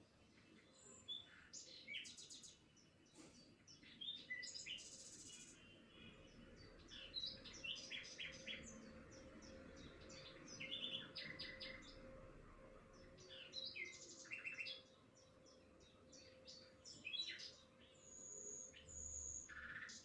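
Birds chirping and trilling, faint, with short calls following one another throughout and two high whistled notes near the end.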